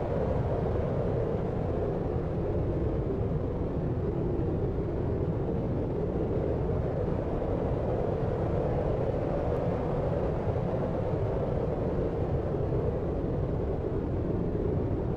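Deep, steady sleep noise, a brown-noise-like rumble and hiss weighted heavily toward the low end, unchanging and without any distinct sounds in it.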